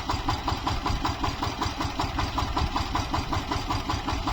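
Tractor diesel engine running steadily with an even, fast beat.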